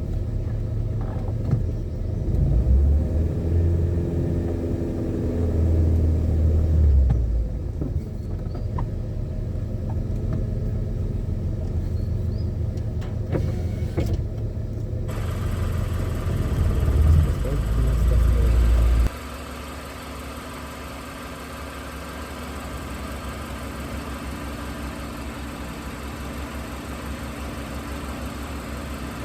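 Car engine and road noise while driving, the engine pitch rising and falling a few times. About two-thirds of the way through, the sound drops abruptly to a quieter, steady engine hum.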